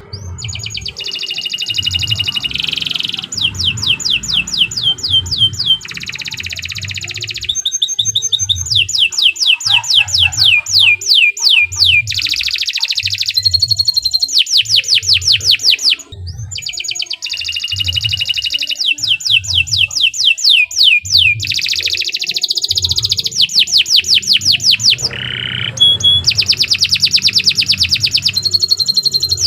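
Canary singing a long, continuous song of rapid trills: each phrase is a fast run of repeated descending notes lasting a second or two, changing straight into the next phrase.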